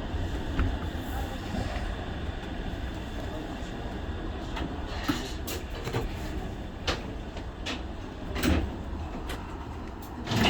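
Inside a Shonan Monorail 5000-series car: a steady low hum of the train, with a few sharp clicks and knocks around the middle.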